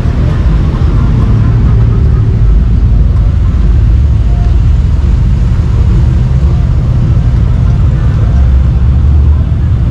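Motor vehicle running with a steady, loud low rumble, faint voices mixed in.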